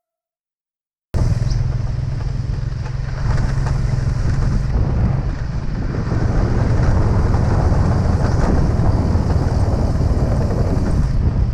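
Habal-habal motorcycle taxi running under way, a steady loud engine and road rumble that cuts in abruptly about a second in after silence.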